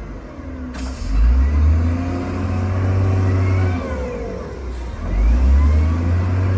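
Heavy diesel engine of an earthmoving machine revving under load in two surges, its pitch rising and falling, with a low rumble between.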